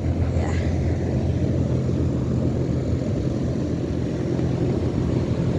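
Trane XB13 3-ton central air conditioner's outdoor condensing unit running steadily: the scroll compressor hums low under the steady whoosh of the condenser fan.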